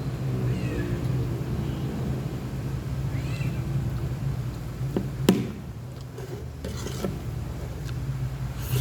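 A cat meowing a couple of times over a steady low hum, with one sharp click about halfway through.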